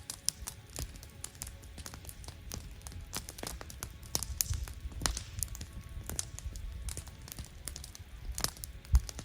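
Wood campfire crackling, with irregular sharp snaps and pops over a low rumble. One loud pop comes near the end.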